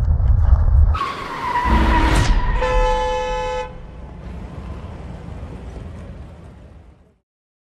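Wind and road rumble on a motorcycle action camera in a storm, then a vehicle horn sounds once for about a second. The sound then fades out.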